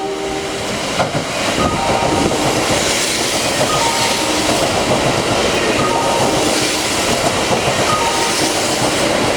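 Kintetsu electric train running through the station, a steady loud roar with wheels clattering over the rail joints. A short falling chime of a few notes repeats about every two seconds over it.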